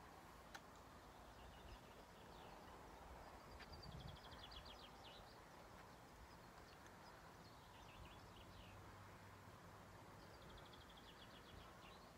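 Faint small bird singing three short, rapid trilling phrases a few seconds apart, over a low steady hush.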